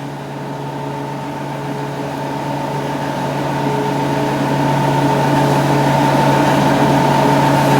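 A steady mechanical hum with several fixed tones and a hiss above it, growing gradually louder.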